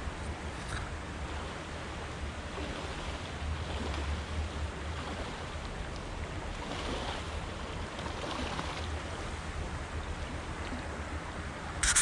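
Steady rush of moving water with wind buffeting the microphone. A sharp knock comes right at the end.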